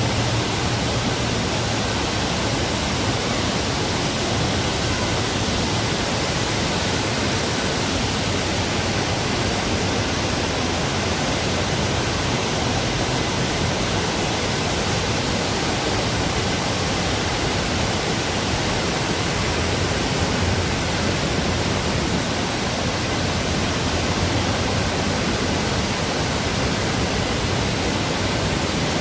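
Waterfall rushing steadily, an even full-range hiss of falling water without breaks or changes.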